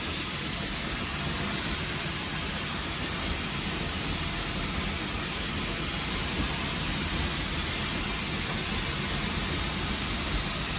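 Steady hiss and rumble in the cab of steam locomotive No. 81 as it works up a grade.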